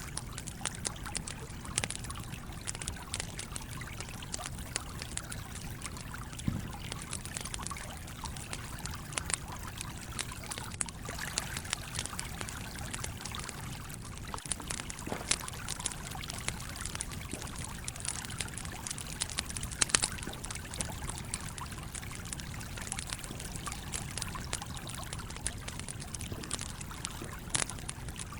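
A stream flowing steadily with a trickling, pouring sound, over which a campfire crackles with frequent irregular sharp pops, one of the loudest about two-thirds of the way through.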